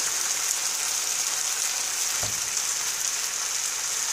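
BBQ-marinated pork fillet steaks frying in a pan, the sauce and fat sizzling with a steady, even hiss.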